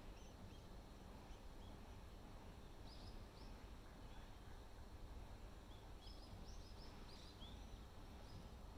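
Near silence over a faint low outdoor hum, with a few short, high bird chirps about three seconds in and a small cluster more from about six to seven and a half seconds in.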